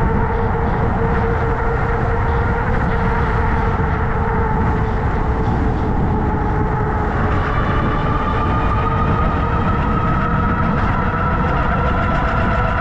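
An electric bike being ridden at speed: steady wind and road rumble, with even whining tones from the drive. One tone enters about seven seconds in and slowly rises in pitch, as the speed picks up.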